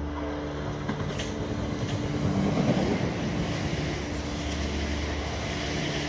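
South Western Railway electric multiple-unit train running through the station at speed, its wheels and running gear giving a rushing rumble. The rumble swells to its loudest about two to three seconds in as the carriages draw level, then eases off.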